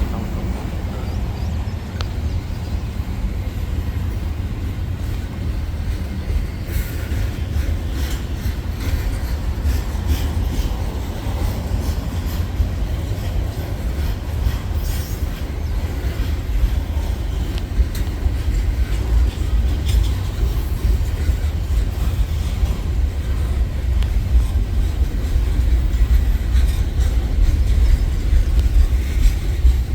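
A train rolling past on the rails: a steady low rumble of railcars with scattered clicks and knocks from the wheels, growing slightly louder toward the end.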